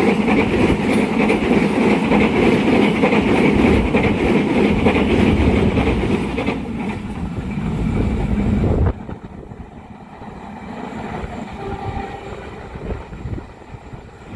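Passenger or freight train passing close by, a loud steady rumble of wheels and carriages on the rails with some clickety-clack over the rail joints. The sound cuts off abruptly about nine seconds in, leaving a much quieter background.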